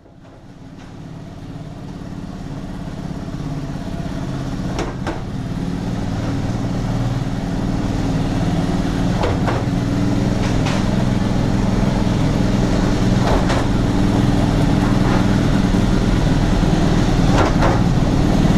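Motorcycle engine running steadily, fading in from silence over the first several seconds, with a few short sharp clicks or knocks along the way.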